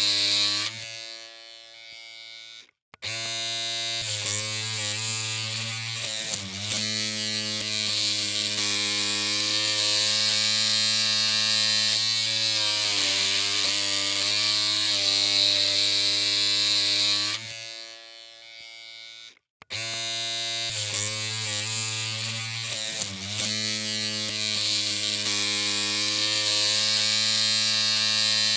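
Electric hair clippers humming steadily with an even-pitched buzz. They die away and stop about a second in, start again about three seconds in, and the same off-and-on happens again between about seventeen and twenty seconds in.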